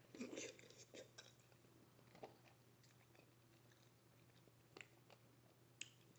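Close-miked eating sounds: chewing and mouth smacks from a seafood boil. A quick run of moist, clicky chewing starts in the first second, followed by a few scattered smacks.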